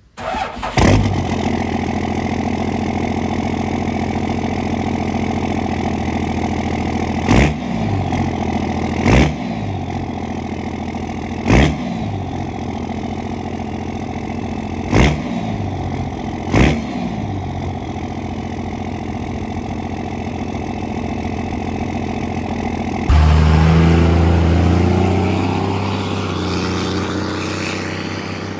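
Diesel pickup truck engine starting and settling into an idle, then revved briefly five times. About 23 s in it suddenly gets louder and deeper, then slowly fades, like the truck pulling away under load.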